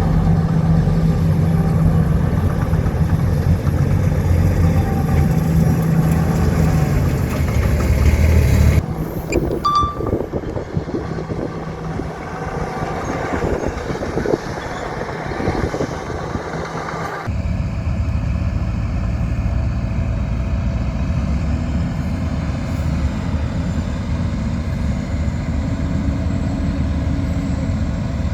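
Heavy diesel earthmoving machinery running under load with a steady low rumble. The sound changes abruptly about nine seconds in to a thinner stretch with scattered knocks and clanks, then about seventeen seconds in back to a steady low engine rumble.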